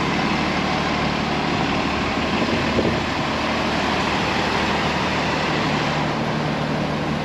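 A bus's diesel engine running steadily close by, with a constant low hum.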